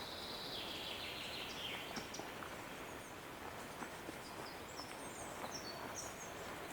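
Songbirds singing in a forest: a falling trill in the first two seconds, then a run of short, high chirps in the second half, over a steady faint outdoor hush.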